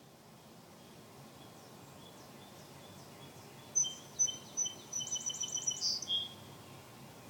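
A small songbird singing: faint high chirps, then about four seconds in a louder run of quick high-pitched notes lasting a little over two seconds, ending on a lower note. Steady faint background noise underneath.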